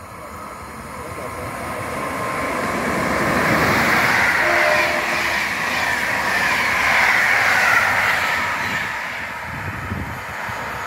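PKP Intercity passenger train passing through the station at speed: the rush of wheels on rail grows as it approaches, is loudest for several seconds in the middle as the coaches go by, then fades as it draws away.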